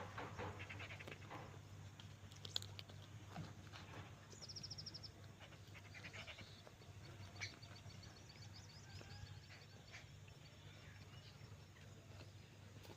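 Faint outdoor rural ambience: birds chirping, with a quick trill about four seconds in. A steady low hum runs underneath, with a few small knocks.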